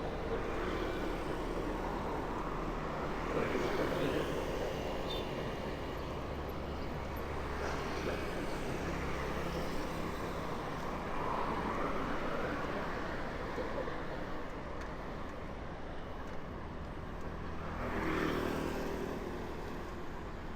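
Street traffic heard from a moving bike: a steady hum of engines and road noise, with vehicles swelling past close by every few seconds, the nearest about four seconds in and near the end.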